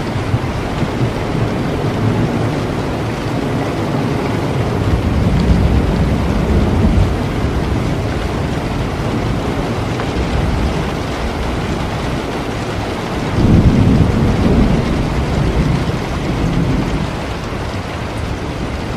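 Steady heavy rain with low rolling thunder: the rumble swells a few seconds in, and a louder, sudden rumble breaks out about two-thirds of the way through.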